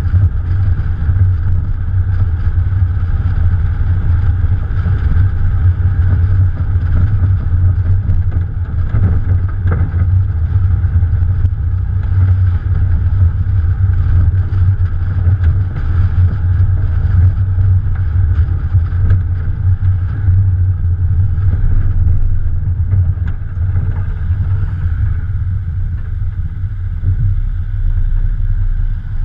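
Morgan Plus 4's Ford 2.0-litre four-cylinder engine running on the move, heard from the bonnet with a heavy, steady low rumble of wind and road noise; it eases off slightly about three-quarters of the way through.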